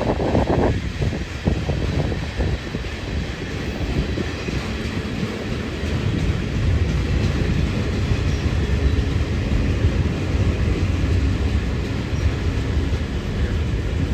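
Train running on the line, a steady low rumble.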